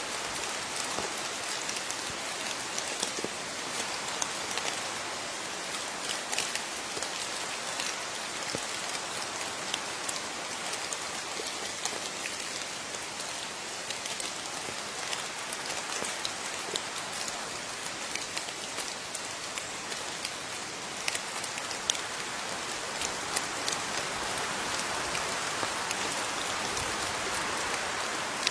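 Steady rain falling, a continuous hiss with many individual drops tapping and pattering close by.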